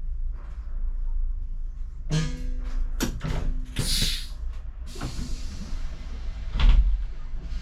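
Solaris Urbino 15 city bus standing with its engine idling low. About two seconds in come a steady hum, a run of clunks and knocks, a short sharp hiss of air, and a heavy thump near the end, as the bus gets ready to pull away.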